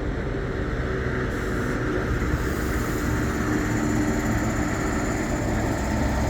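Diesel train engine idling steadily, a low, even hum with a faint steady tone in it.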